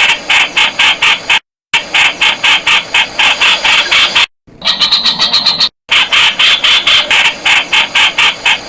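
Streak-eared bulbul calling: fast runs of sharp repeated notes, about six or seven a second, broken by short abrupt gaps of total silence.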